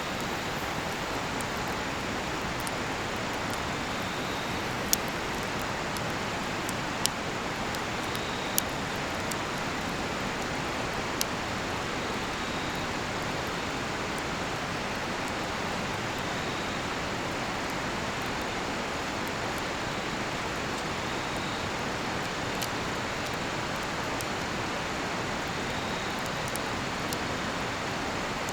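Steady rushing of a nearby river, with a cedar-wood campfire giving a few sharp crackling pops, four of them in the first dozen seconds. A cricket chirps faintly about every four seconds.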